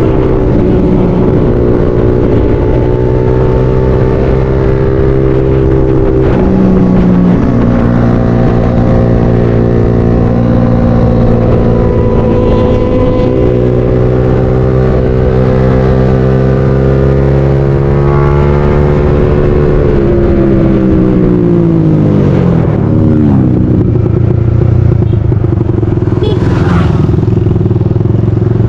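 A motorcycle engine running under way, holding a fairly steady pitch with small rises and dips. About twenty seconds in, the engine pitch falls away as the bike slows, then settles at a lower steady note.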